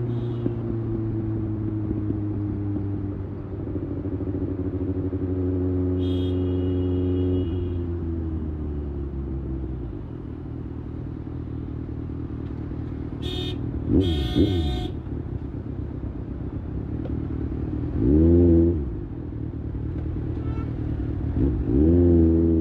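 Kawasaki ZX-6R's 636 cc inline-four engine running steadily at highway cruising speed, easing off a little after about seven seconds. Later it revs up and falls back in three quick sweeps, the loudest about three-quarters of the way through. Short horn toots sound about six seconds in and twice a little past the middle.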